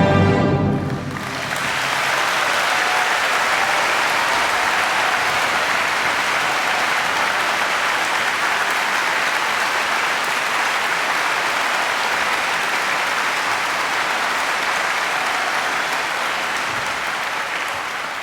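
An orchestra's final chord rings out and stops about a second in, then a large concert-hall audience applauds steadily, easing off slightly near the end.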